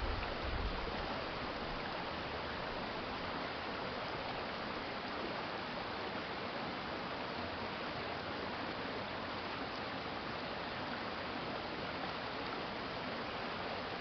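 A shallow city stream flowing steadily over its bed, an even rushing of water, with a brief low rumble in the first second.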